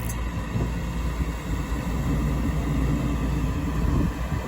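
Rooftop HVAC equipment running with a steady low rumble and a faint steady hum.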